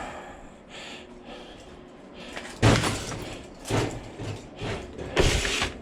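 Cut metal pieces from a scrapped AC condenser being handled and set down: a sharp clunk about two and a half seconds in, a lighter knock a second later, and a half-second clatter near the end.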